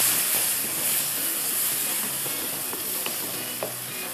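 Onion-and-tomato masala sizzling steadily in a wok over a gas flame while a wooden spatula stirs it, with a few light taps of the spatula on the pan.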